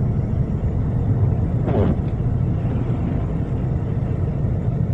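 Steady low rumble of a car driving, heard from inside the cabin: engine and studded winter tyres on a snowy road. A brief murmur of a voice comes a little under two seconds in.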